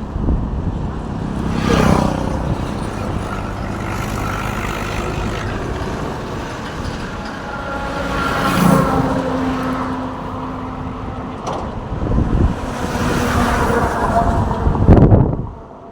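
Road traffic: car and truck engines running and vehicles passing, with the sound swelling three times, the loudest pass near the end.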